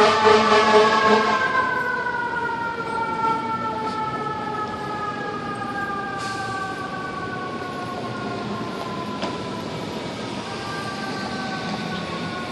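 Fire engine siren, loud and pulsing rapidly at first, then its pitch sliding slowly downward as it fades.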